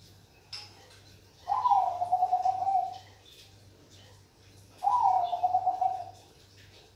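Zebra dove (perkutut) cooing: two long, fluttering coos, each about a second and a half, with a short pause between them.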